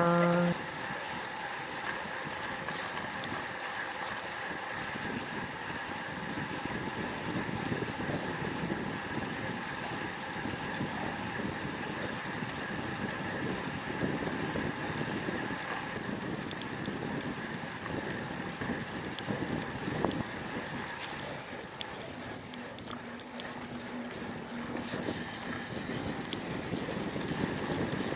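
Wind rushing over an action camera's microphone while riding a road bike in strong wind, over steady tyre and road noise.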